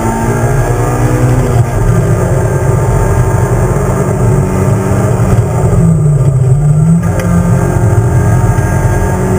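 Racing Toyota Corolla AE92's engine heard from inside the stripped cockpit, driven hard with the revs sliding down and climbing again through gear changes and lifts. About six seconds in the revs dip briefly, then pull back up under full throttle.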